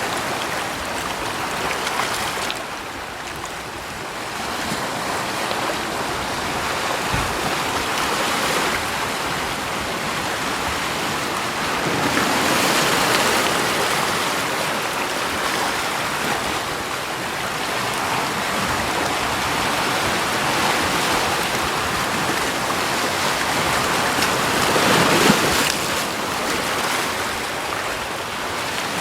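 Continuous rushing water, swelling louder a little under halfway through and again near the end.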